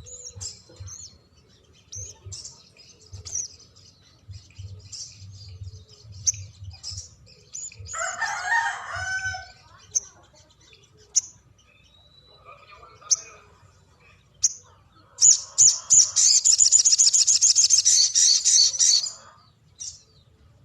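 Sogon songbird singing: scattered short, high chirps, then about fifteen seconds in a long, rapid rolling trill lasting about four seconds, the loudest part. A lower, harsher call comes about eight seconds in.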